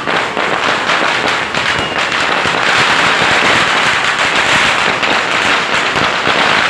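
Many fireworks and firecrackers going off at once, their bangs running together into a dense, continuous crackle that swells slightly after about two seconds.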